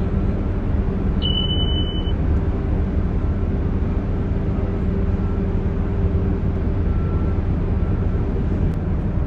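Tugboat engine running with a steady low hum. A short high beep sounds once, about a second in.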